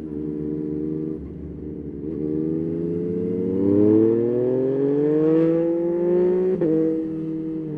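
Yamaha Tracer 9's 890 cc inline-three engine pulling under acceleration, its pitch climbing for several seconds, then dropping suddenly about six and a half seconds in as the revs fall, and running on steadily.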